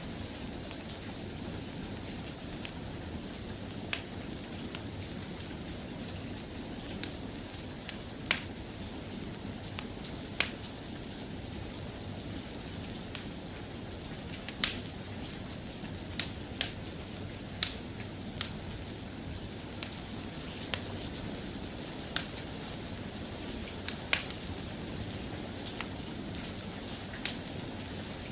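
Steady soft rain with scattered sharp pops and clicks, a few every couple of seconds and more frequent in the second half.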